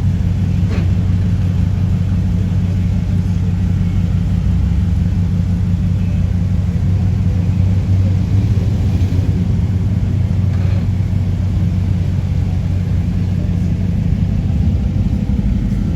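A street rod's engine idling with a steady, deep low rumble.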